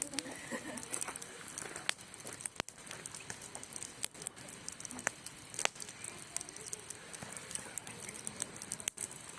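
Wood bonfire burning, crackling with irregular sharp pops and snaps over a soft steady hiss.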